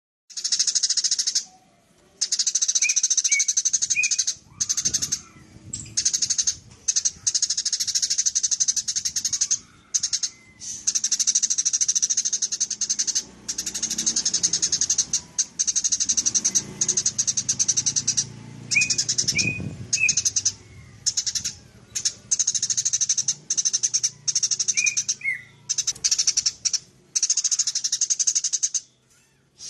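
Eurasian tree sparrow chattering in long, fast runs of shrill chirps, broken by brief pauses every few seconds.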